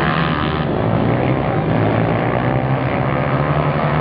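Pit bike engines running during a race. Several small motorcycle engines overlap in a loud, continuous drone, with pitches rising and falling as the riders work the throttle.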